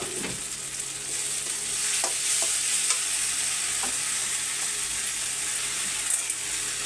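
Masala and ground chickpeas sizzling and frying in oil in a steel kadhai over a wood fire, with a metal ladle stirring and scraping the pan a few times. The sizzle gets louder about two seconds in.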